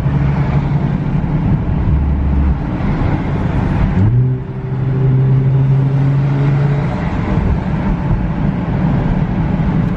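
Nissan GT-R R35's twin-turbo V6 running at a steady cruise with road noise. About four seconds in the sound dips briefly, then a steady engine drone comes in, rising slightly in pitch.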